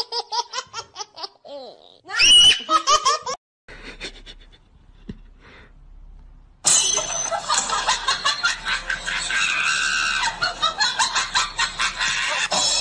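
A person laughing in rapid, high-pitched bursts for the first few seconds. After a short, nearly quiet gap, a louder dense stretch of quick pulsing sound starts about six and a half seconds in and keeps going.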